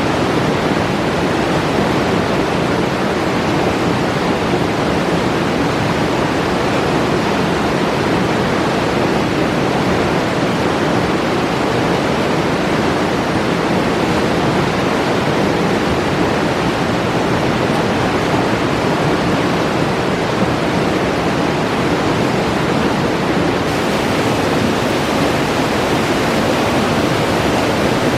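Alpine river flowing, a steady, loud rush of water.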